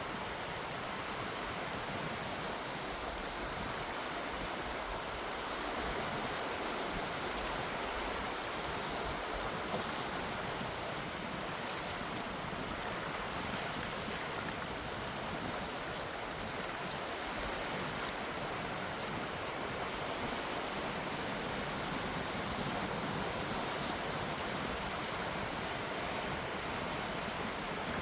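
Gentle sea waves washing in a steady hiss of water that swells only slightly now and then.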